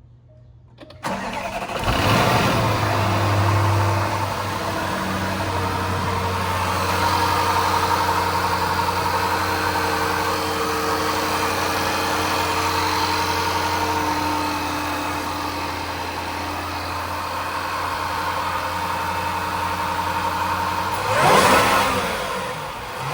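Range Rover's 5.0-litre supercharged V8 starting about a second in, flaring up briefly, then settling to a steady idle. Near the end it is revved once and falls back.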